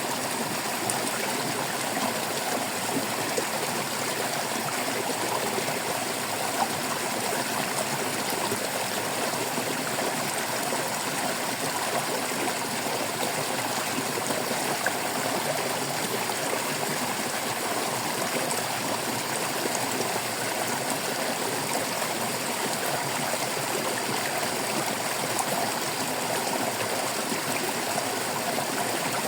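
Water of a small stream babbling and trickling steadily over stones, a continuous splashing with many small gurgles and no breaks.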